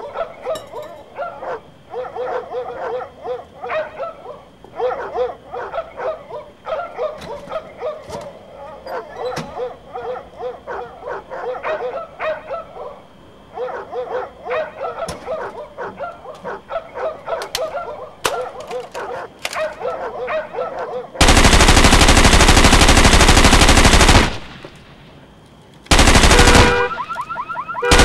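A dog barking over and over, then a loud burst of machine-gun fire about three seconds long and a second shorter burst. A car alarm starts up near the end.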